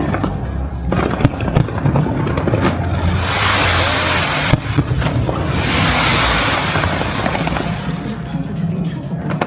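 Fireworks going off in a rapid run of bangs, with two denser noisy spells about three and six seconds in, over loud music.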